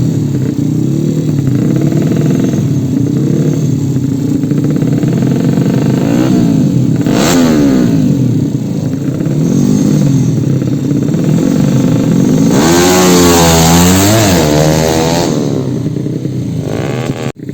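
Yamaha Jupiter motorcycle engines, bored out to 130 cc, revving up and down again and again. A harder, louder surge of revving comes from about 12.5 to 15 seconds in.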